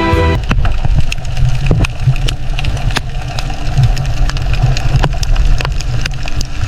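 Fishing vessel machinery runs with a steady low rumble, punctuated by frequent sharp clanks and knocks. A held musical chord cuts off about half a second in.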